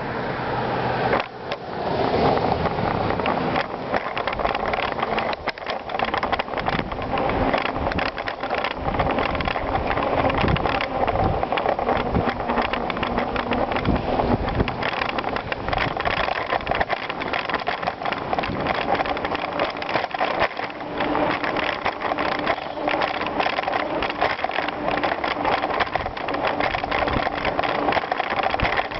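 Bicycle riding over a gravel trail: continuous tyre and wind noise, dense with rattling and knocks from the bike on the rough surface.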